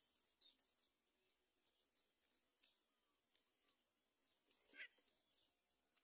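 Near silence with faint, short, high-pitched bird chirps scattered throughout, and one slightly louder falling chirp about five seconds in.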